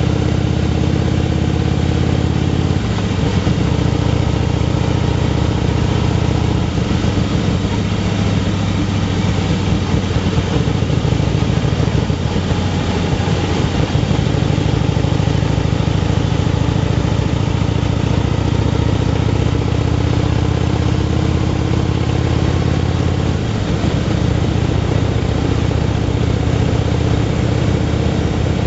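Motorcycle engine running on the move, with the rush of air across the bike. Its pitch shifts a few times as the throttle or gear changes: near the start, about halfway through and near the end.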